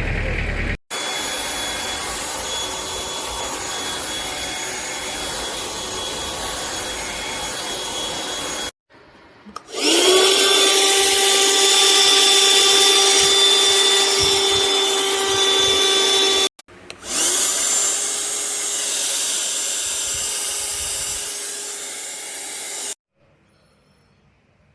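Motor of a Superstorez cordless handheld vacuum cleaner running with a steady whine, in three separate stretches. The second and third stretches begin with a rising spin-up as the motor starts, and the sound stops about 23 seconds in.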